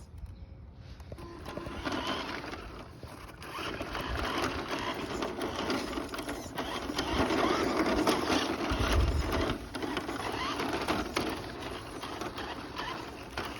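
A small motor whirring with a continuous rattle, loudest in the middle and swelling from about four seconds in, with a low thump about nine seconds in.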